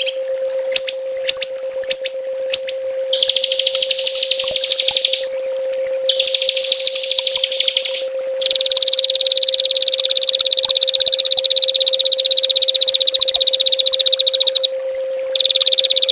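A small songbird's rapid-fire trilling song, the 'tembakan' used to train caged songbirds: a few sharp chirps, then fast buzzy trills, the longest about six seconds and falling slightly in pitch. A steady low hum runs underneath.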